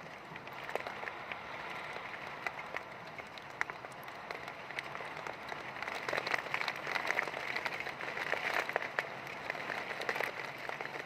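Heavy rain falling: a dense patter with many sharp individual drop hits, swelling louder about six seconds in.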